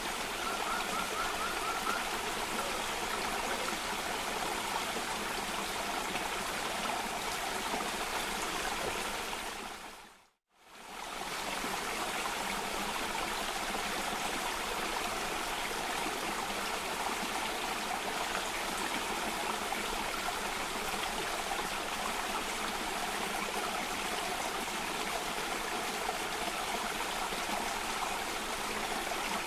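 Steady rushing of water cascading down a small waterfall or rocky stream. About ten seconds in it fades briefly to silence and swells straight back, like the seam of a looped recording. There is a short faint trill about a second in.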